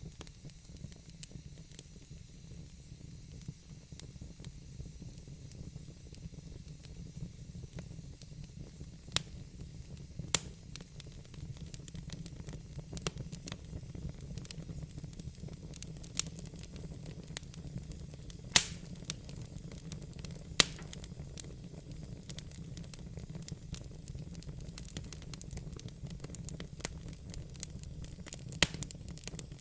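Wood fire burning in a fireplace: a steady low rumble and faint hiss, with scattered sharp pops and crackles from the burning logs, two of them loudest about two-thirds of the way in.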